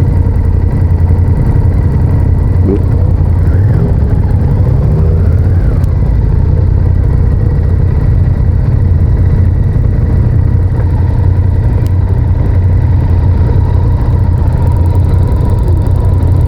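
Honda VTR1000F's 90-degree V-twin engine running at a steady note while the motorcycle is ridden, over a heavy low rumble.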